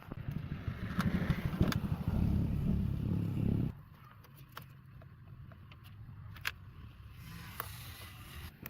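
A car engine running with a low, pulsing rumble for about three and a half seconds, then cutting off suddenly; a faint low hum and a few light clicks follow.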